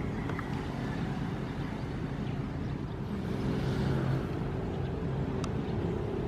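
Ocean surf: a steady low rumble of waves, with one wave washing in a little louder and hissier about halfway through.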